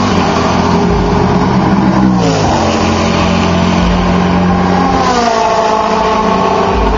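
Sports-prototype and GT race cars running flat out on a straight, several engines overlapping. One car's engine pitch drops sharply as it passes about two seconds in.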